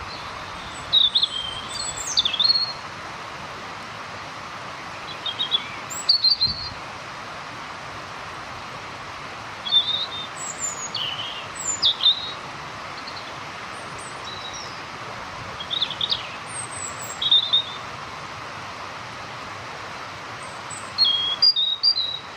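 A robin singing: about five short phrases of high, varied chirping notes, each a second or two long, separated by pauses of a few seconds, over a steady background hiss.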